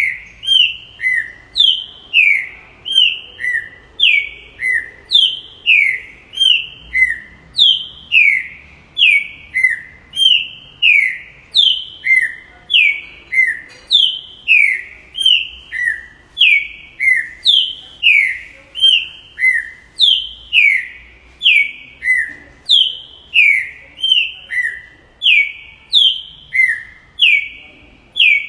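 Green-winged saltator (trinca-ferro) singing: a long, steady run of short, clear whistled notes, each falling in pitch, about one and a half a second.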